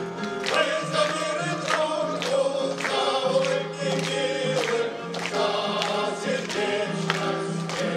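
An amateur veterans' choir singing a Soviet song with instrumental accompaniment.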